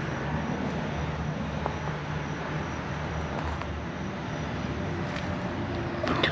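Steady low rumble of a motor vehicle engine running, with a brief falling squeak near the end.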